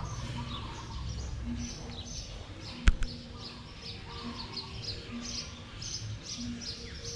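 Birds chirping repeatedly, with one sharp click about three seconds in.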